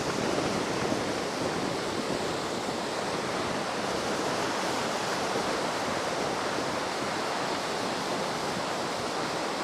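Heavy ocean surf washing steadily onto a sandy beach, the waves running high after a typhoon.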